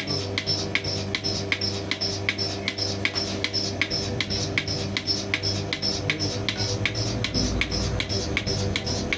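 Single-bucket milking machine running: the steady hum of its vacuum pump motor under the pulsator's regular clicking, about two strong clicks a second.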